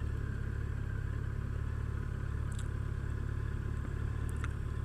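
A 2015 Yamaha FJR1300's inline-four engine and the ride's wind noise while cruising: a steady low rumble with a quick flutter in its level.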